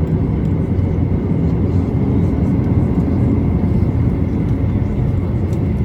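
Cabin noise of a Boeing 737-800 taxiing, its CFM56-7B engines at idle: a steady low rumble with a faint high whine.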